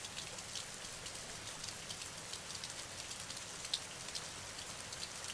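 Steady rain falling: an even hiss dotted with many small, sharp ticks of individual drops.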